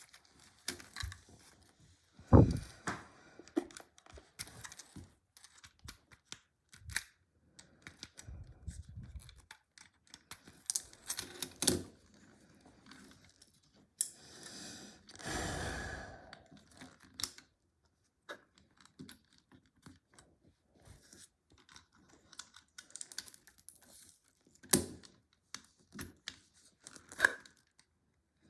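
LEGO plastic bricks being handled and pressed together: irregular small clicks and rattles, with a louder knock about two seconds in and a longer rustle of pieces around the middle.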